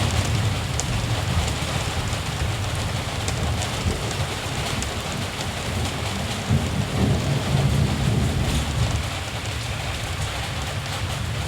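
Steady rain with a low rumble of distant thunder, which swells a little past the middle.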